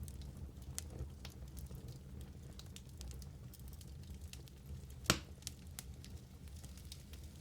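Wood fire burning in a fireplace with a low steady rumble and scattered small crackles, and one sharper, louder pop about five seconds in.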